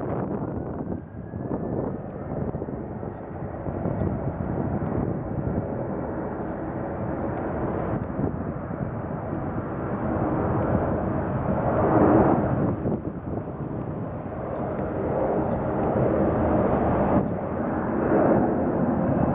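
Boeing 737-800's CFM56-7B turbofan engines at takeoff thrust: a steady jet roar with a faint rising whine near the start, swelling to its loudest about twelve seconds in and again near the end.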